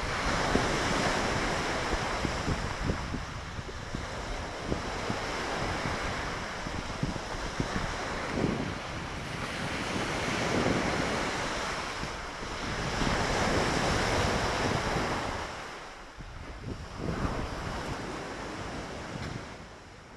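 Lake Victoria waves breaking and washing onto the shore in repeated surges, with wind buffeting the microphone.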